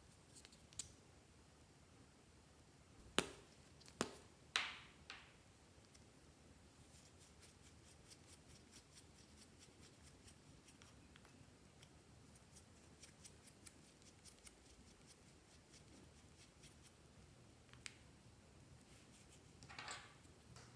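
A few sharp, quiet clicks in quick succession about three to five seconds in, one followed by a short scrape, then faint ticking, one more click, and a brief scraping rustle near the end: small hard objects being handled.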